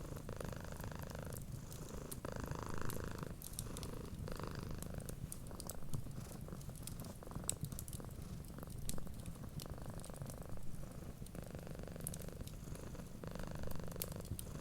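Domestic cat purring steadily, swelling and easing in slow breath cycles, with the sharp pops and crackles of a wood fire.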